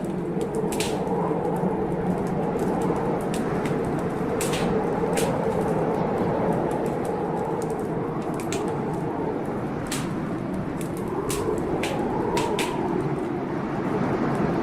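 Blizzard wind, a steady rush with a howl that swells and fades in slow gusts, over the irregular pops and crackles of a wood fire burning in a fireplace.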